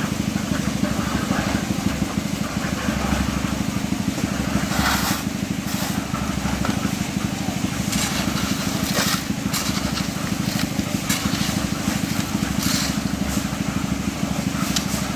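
Engine of road-construction machinery running steadily with a fast, even throb, with short clattering and scraping noises scattered over it.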